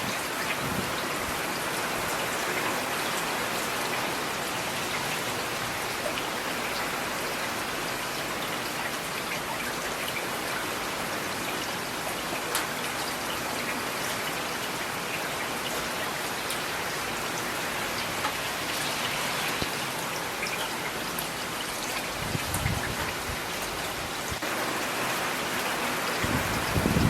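Steady rain falling on hard surfaces, an even hiss with scattered individual drops ticking through it. Brief low rumbles come about three-quarters of the way in and again at the very end.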